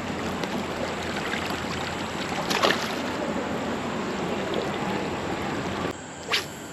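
Steady rush of flowing river water, with a single sharp knock about two and a half seconds in; the water sound drops suddenly to a quieter level near the end.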